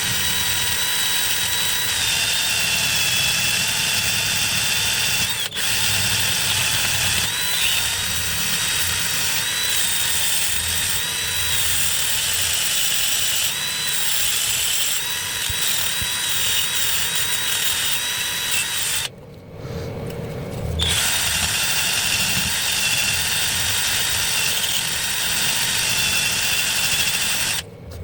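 A small electric power tool motor runs steadily at high speed with a whine. It stops for about two seconds about two-thirds of the way in, starts again, and cuts out briefly just before the end.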